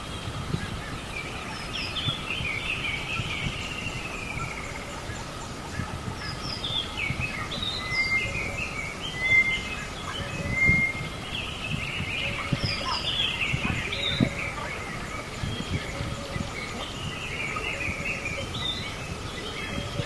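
Birds chirping and singing: repeated short calls and gliding chirps over a steady background hiss.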